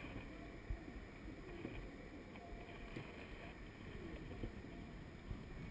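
Outdoor ambience dominated by wind rumbling on the microphone, with faint distant voices and a few soft knocks.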